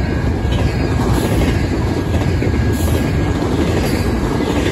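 Double-stack intermodal well cars of a freight train rolling past at speed: steady wheel-on-rail noise.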